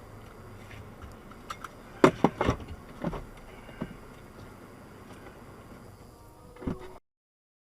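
A few sharp knocks or bangs: the loudest cluster comes about two seconds in, with weaker ones a second and two seconds later and one more near the end, over a low background. The sound then cuts off to silence.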